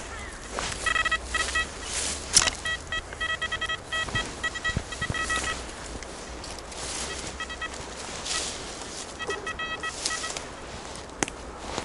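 Metal detector signalling a target: rapid runs of short pitched beeps as the search coil is swept back and forth, in two spells, over a background of rustling noise.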